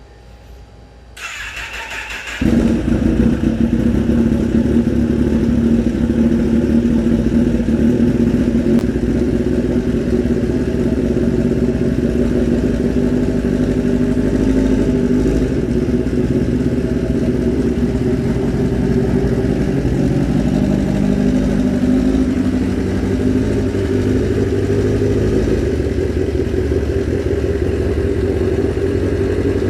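Kawasaki ZX-10R's inline-four engine being cold-started: the electric starter cranks for about a second, the engine catches a little over two seconds in, and it settles into a steady idle.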